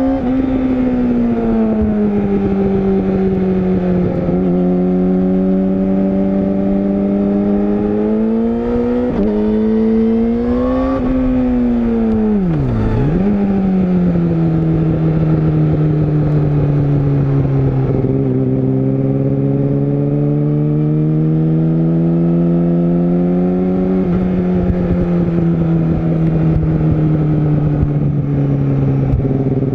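Yamaha YZF-R6 inline-four engine running under the rider, engine speed easing down and climbing in turn with brief dips along the way. About 13 seconds in the revs fall sharply and then pick back up.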